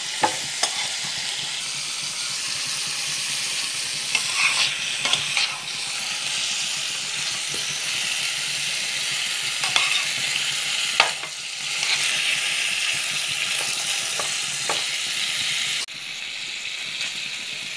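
Chicken pieces and cauliflower sizzling in hot oil in a pan while being stirred with a spatula, with a steady frying hiss and scattered clicks and scrapes of the spatula against the pan. The level drops suddenly near the end.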